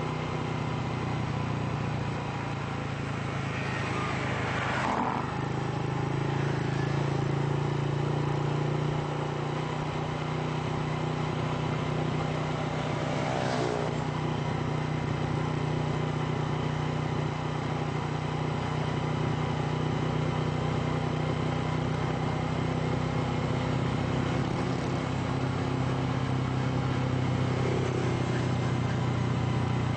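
Steady engine and road noise from a motor vehicle driving along at an even speed. Twice, about 5 and 14 seconds in, a brief engine note rises and falls as another vehicle passes.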